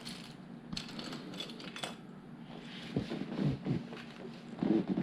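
Plastic LEGO pieces clicking and clattering as they are handled, with a few sharp clicks early and duller knocks later.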